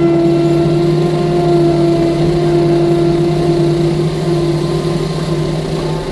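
Engine of a six-ton compact track loader (skid steer) running steadily at high revs with a low, even hum; it gets louder at the outset and then holds.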